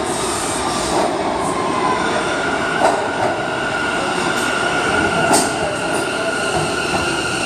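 New York City R179 subway train running through the station with steady rumbling wheel and track noise. A high, steady wheel squeal comes in about two seconds in, with a few sharp clicks over the rumble.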